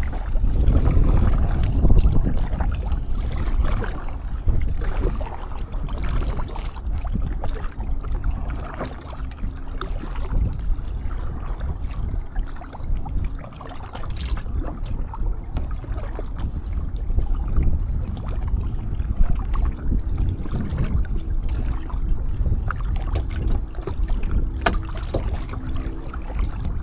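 Wind buffeting the microphone, over water sloshing and lapping around a kayak on choppy water.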